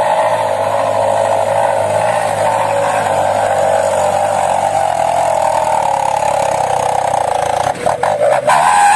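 A truck engine sound running steadily, breaking up in a few short dips near the end.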